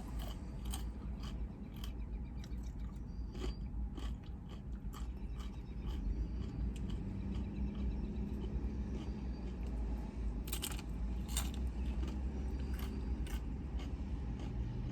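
A person chewing and biting food close to the microphone, with scattered crunches and wet mouth clicks.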